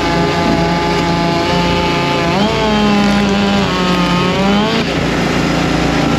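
Several small gasoline engines running together. One revs up about two seconds in, holds high, and drops back near five seconds.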